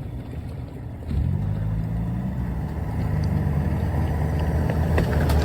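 A 4x4's engine revving hard under load as it climbs over rocks. It picks up sharply about a second in and keeps getting louder. A few short knocks come near the end.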